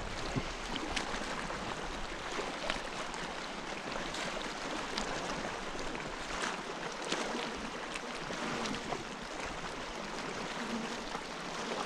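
Water washing and lapping along the rocks, a steady hiss with scattered small clicks and ticks.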